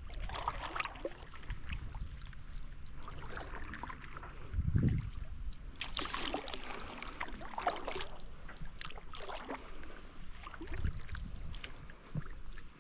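Canoe paddling: the paddle dipping and pulling through the water, a splashy stroke every second or two, with one low thump about five seconds in.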